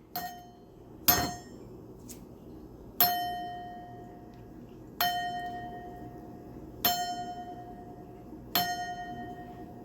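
An eclectus parrot knocks its food bowl about, making it clang six times, roughly every two seconds. Each strike rings on as a clear tone that slowly fades.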